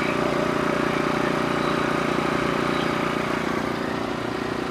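Norwood HD36 portable band sawmill running steadily, its engine at a constant speed.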